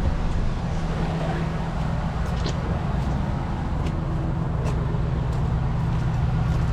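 A 2006 GMC Sierra 1500 pickup's gasoline engine idling steadily a minute after a cold start. It runs smoothly and evenly: the owner hears no shaking, no exhaust leak and no alternator or belt noise.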